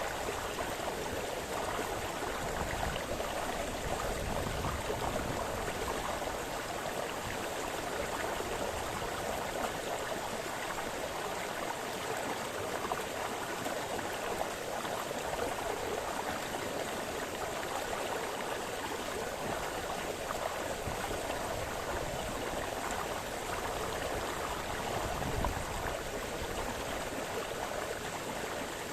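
A small forest brook splashing and babbling over stones, a steady even rush of running water.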